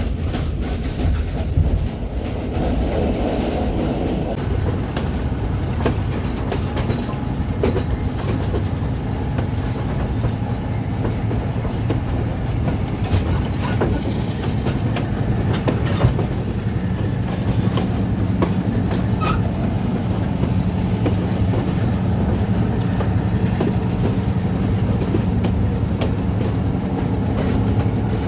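Colombo–Badulla night mail passenger train running on the rails: a steady low rumble of wheels and carriages with scattered sharp clicks and knocks. A steadier hum comes in about two-thirds of the way through.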